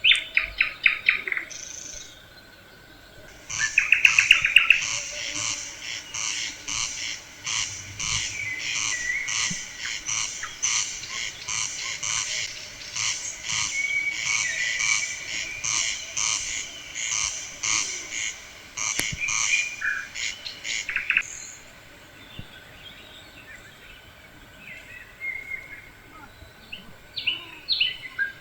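Birds singing: a long run of evenly repeated high notes, two or three a second, from a few seconds in until about three-quarters of the way through, with short rapid trills near the start and near the end.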